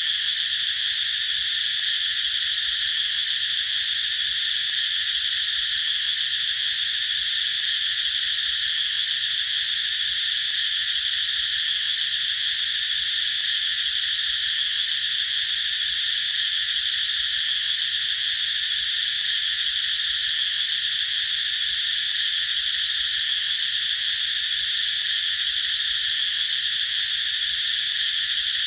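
Chorus of cicadas singing: a loud, steady, high-pitched drone that holds without a break.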